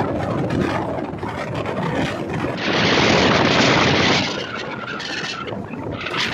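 Express train running on the track: a steady rush of wheel and air noise that swells louder for about a second and a half near the middle.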